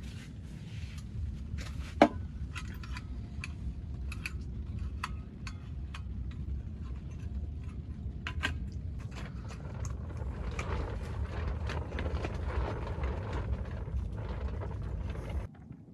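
Scattered small clicks and knocks, with one sharp knock about two seconds in, over a steady low rumble; the sound cuts off abruptly just before the end.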